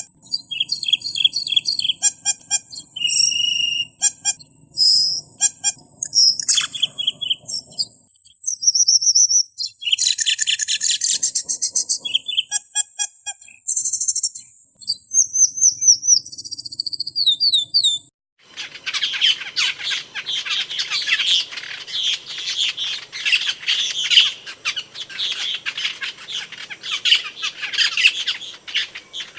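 Recorded song of a camperling (cemperling), the kind of song track used as 'masteran' to teach cage birds. It starts with varied short chirps, whistled notes and quick trills. After a brief break about eighteen seconds in, it turns into a continuous, dense, scratchy chatter.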